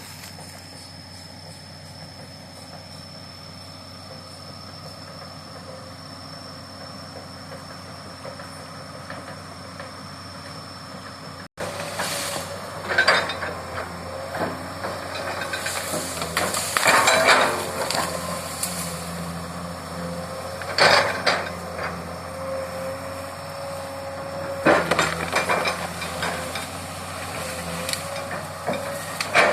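Crawler excavator travelling on its tracks: a steady diesel engine hum, then after a sudden cut about a third of the way in, louder running with repeated metallic clanks and squeals from the tracks and a wavering whine.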